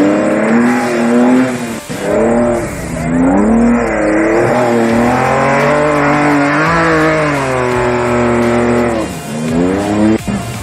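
Off-road race vehicle engine running hard, its pitch rising and falling several times, holding fairly steady through the middle, then dropping near the end.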